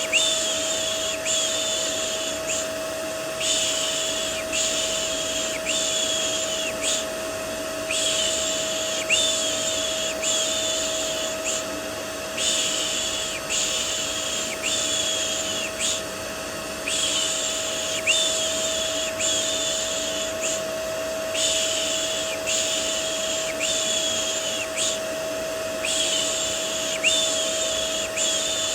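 Looped 'shh' shushing for soothing a baby: runs of three or four short shushes less than a second apart, each run followed by a brief pause. Underneath is steady vacuum cleaner white noise with a constant hum.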